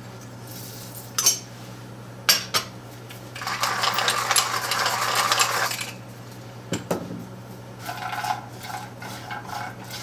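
Walnuts being seasoned and stirred in a frying pan: a few sharp utensil clicks against the pan, a gritty rustle lasting a couple of seconds about three seconds in, and scraping near the end, over a steady low hum.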